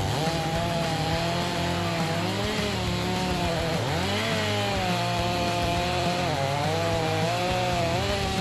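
Chainsaw running at high revs while cutting wood, its engine note dipping sharply about four seconds in and again a couple of seconds later, then picking back up.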